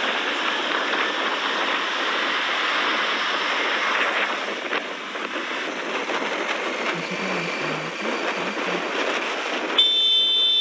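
Steady rushing noise of a moving motorcycle: wind buffeting a helmet-mounted camera, with the engine under it. Near the end it cuts off suddenly into steady high-pitched beeping tones.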